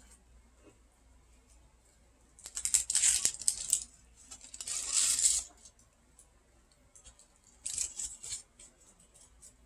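A candy bar wrapper being worked open by hand, crinkling and tearing in three bursts.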